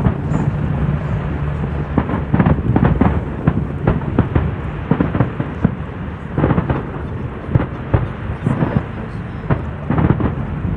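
Fireworks going off: a rapid, irregular string of booming bangs over a steady low rumble.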